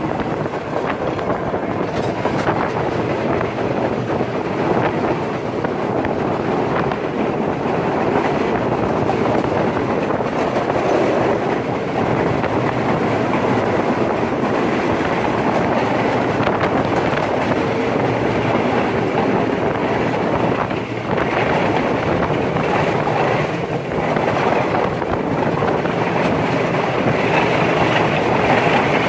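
Udaya Devi express train running along the line: a steady running noise of the carriages and wheels on the rails, dipping briefly twice in the second half.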